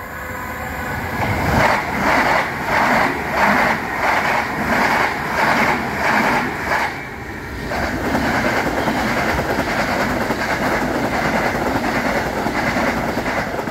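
Two c2c electric passenger trains passing each other over a pedestrian level crossing. The first brings a rhythmic clatter of wheels over the rail joints, about three beats every two seconds. After a brief dip it gives way to the steady rush of the second train, which falls away at the end.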